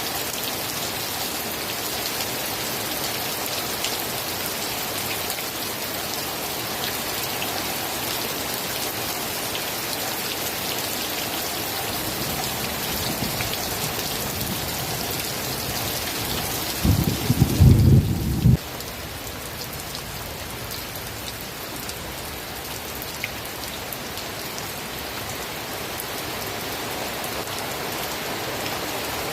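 Steady heavy rain falling. Partway through, a deep low rumble swells up, peaks loudly for a second or two, then cuts off suddenly, and the rain runs on a little quieter.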